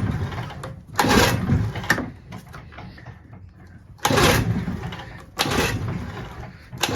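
Recoil starter of a 6 hp Evinrude two-stroke outboard pulled about four times, each pull spinning the engine over briefly without it firing. The motor turns over freely but there is no spark.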